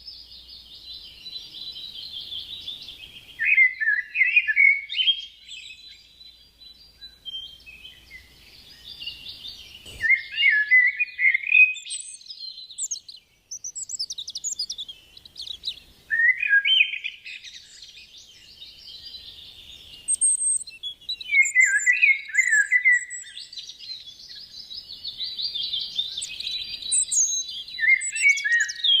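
Wild birds singing and chirping: a high chatter, broken every few seconds by phrases that drop into a lower trill. There is one sharp click about ten seconds in.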